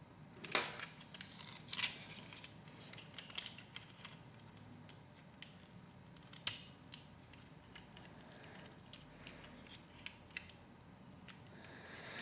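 Lego Technic pieces being handled and fitted together: scattered sharp plastic clicks and small ticks. The loudest clicks come about half a second in, near two seconds and near six and a half seconds.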